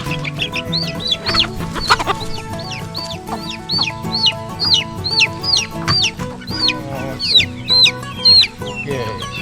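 Young chicks peeping loudly and repeatedly, about two high calls a second, each call rising and then dropping sharply in pitch, with background music underneath.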